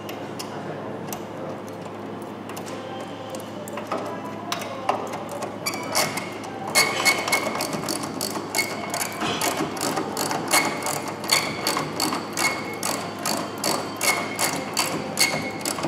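Rapid mechanical clicking and metallic clinks, growing denser and louder about six seconds in.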